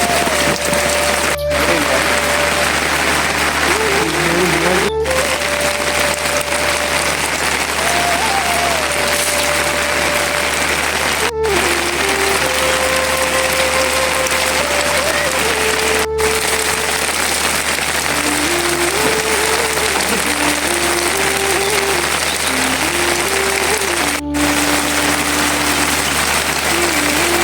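Heavy, steady rain hiss, with a slow single-line melody over it and a few brief dropouts where the clips are cut together.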